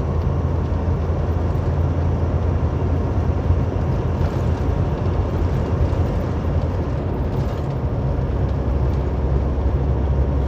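Steady road and engine noise inside a car at highway speed: a constant low rumble.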